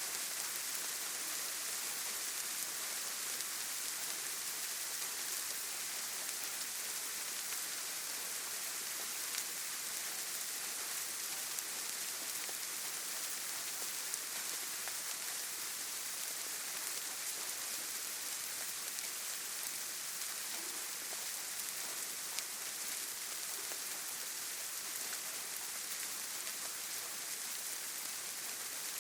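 Steady rain falling on leaves and ground, an even hiss with scattered drop ticks.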